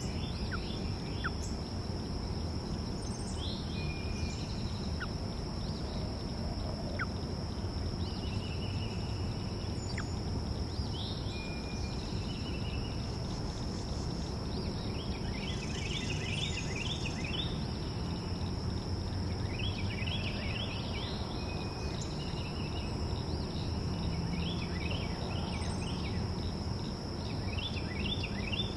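Small birds chirping and twittering in short, repeated bursts of rapid notes, with a few thin single whistles. Underneath runs a steady high-pitched drone and a low, even background rumble.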